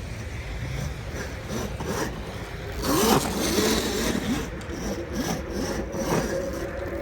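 Dirt bike motor revving up and down, its pitch rising and falling many times in quick succession, loudest about three seconds in.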